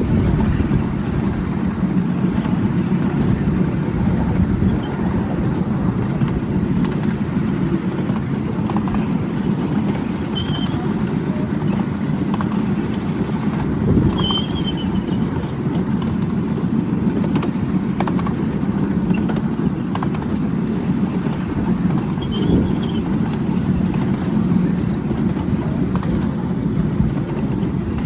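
Miniature passenger railway train running, a steady continuous rumble of wheels on track with no pauses.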